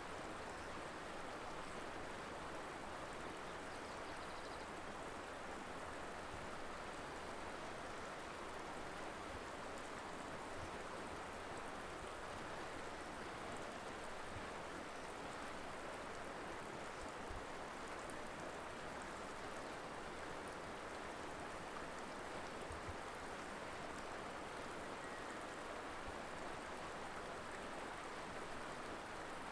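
River water flowing steadily over rocks, an even rushing noise without breaks.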